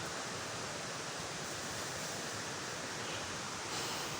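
Steady rush of falling water from a waterfall, an even hiss that holds level throughout.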